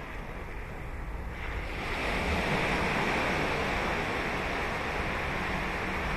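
Ocean surf breaking on a beach: the rushing wash of a wave swells up about a second and a half in and stays loud.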